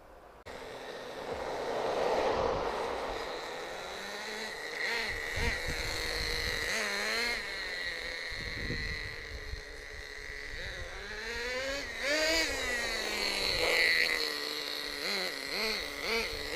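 Small nitro engine of a CEN MG16 1/16-scale nitro monster truck running, its pitch rising and falling again and again as the throttle is worked during a run. The sound comes in suddenly about half a second in.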